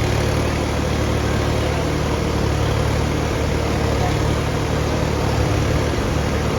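Tractor diesel engine running steadily, a loud, even low drone with no change in speed.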